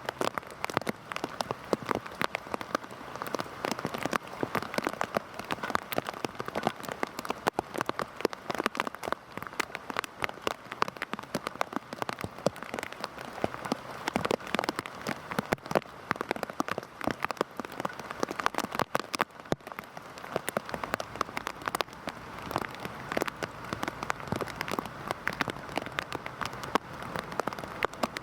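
Heavy rain falling steadily, a dense hiss thick with the sharp ticks of individual drops striking close by.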